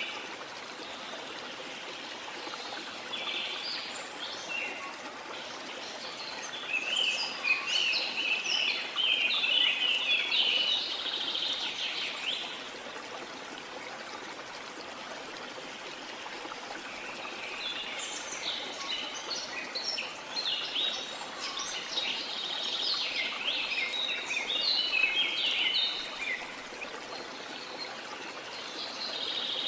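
Steady rush of flowing water from a rainforest waterfall, with tropical birds calling in quick, dense chirps in two long spells, one through much of the first half and another through the second half.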